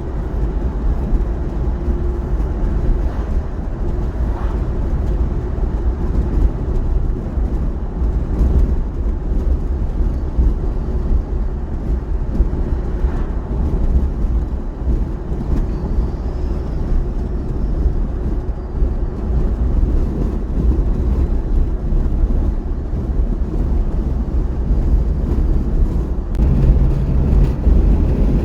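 Peterbilt semi truck's Caterpillar diesel engine running steadily down the road, a deep, low drone mixed with road and wind noise. The sound changes abruptly near the end.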